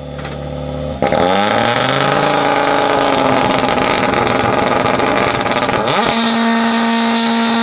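A World Rally Car's turbocharged 1.6-litre four-cylinder engine under hard acceleration on a rally stage. It gets suddenly loud about a second in, its note dips and then climbs, sweeps up quickly near six seconds, and then holds a steady, higher pitch.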